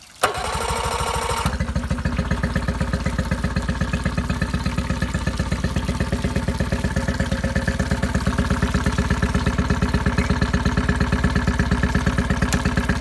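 8 hp Yamaha outboard motor started on its electric starter: the starter cranks for about a second, then the engine catches and runs steadily with an even pulse.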